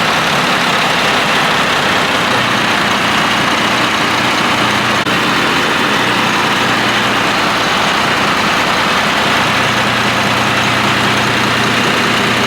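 Cummins QSM11 inline-six marine diesel engines running steadily, loud and unchanging.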